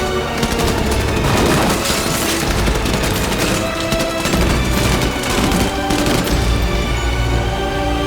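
Film gun fight: rapid bursts of gunfire fired in quick succession over a loud dramatic music score with a heavy low bass.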